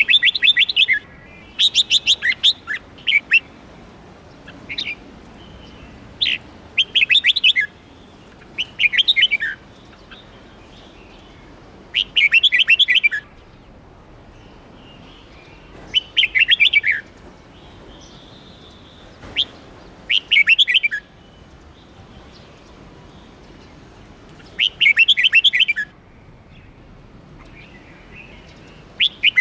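Red-whiskered bulbul singing: short phrases of rapid, fluty notes, each about a second long, repeated every few seconds.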